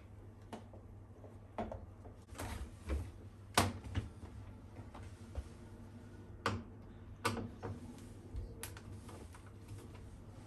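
Irregular sharp clicks and knocks, about eight in ten seconds, from hand tools and washing-machine parts being handled during disassembly, over a faint low hum.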